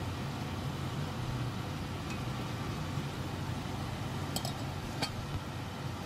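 Chicken frying in oil in a pot, a steady sizzle over a low hum. About four and a half and five seconds in, a slotted metal spatula clinks twice against the pan.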